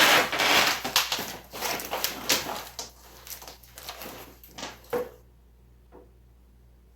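Irregular clattering, knocking and scraping of hand tools and metal parts during adjustment of a riding mower's deck height, stopping abruptly about five seconds in.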